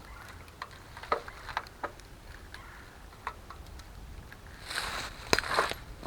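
Footsteps through dry leaf litter and brush: scattered small cracks and crunches, then a louder spell of rustling about five seconds in with a sharp twig snap.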